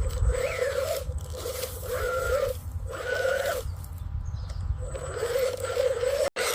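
Kitten mewing: about four drawn-out calls with short gaps between them.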